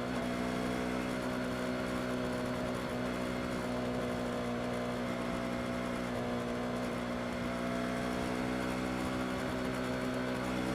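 Yamaha R25 motorcycle's 249 cc parallel-twin engine running steadily at an even, unchanging pitch.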